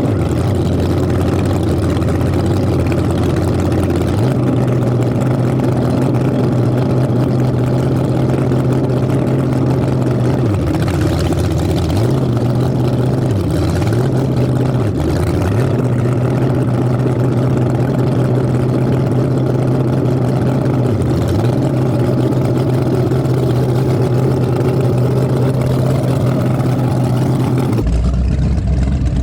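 Twin V8 engines of an Avanti 33 powerboat running steadily, with the engine note dipping briefly a few times around the middle. The sound changes abruptly near the end.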